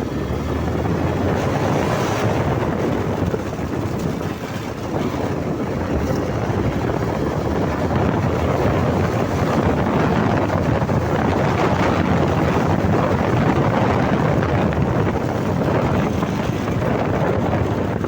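Steady rush of wind buffeting the microphone on a moving motorcycle, with no clear engine note standing out.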